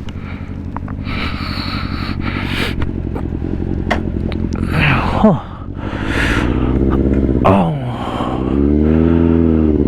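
Yamaha Stratoliner's big air-cooled V-twin running under way, with wind and road noise, its engine note rising and falling several times as the throttle is opened and closed.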